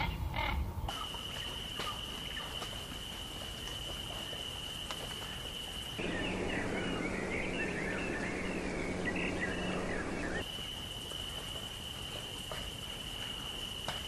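Outdoor bird sounds: a dense chorus of short chirps from many birds for about four seconds in the middle. Before and after it is a steady high-pitched tone.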